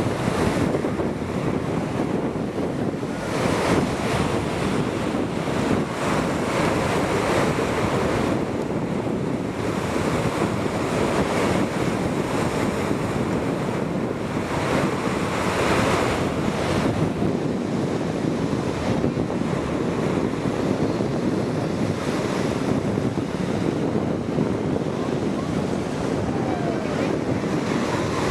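Loud, steady rushing wind noise buffeting the microphone, swelling and easing every couple of seconds.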